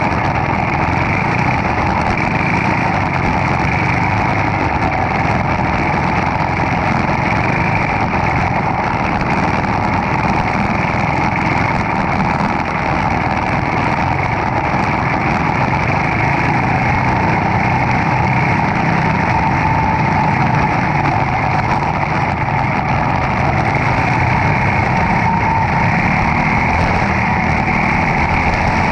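Single-cylinder Briggs & Stratton Animal kart engine running hard, heard close up at racing speed. It runs loud and steady, with its pitch drifting slightly up and down as the throttle changes.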